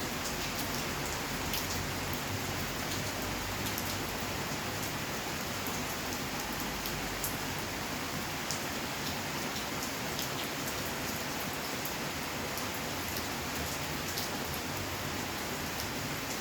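Steady rain falling on surfaces, an even hiss dotted with many small, sharp drop ticks.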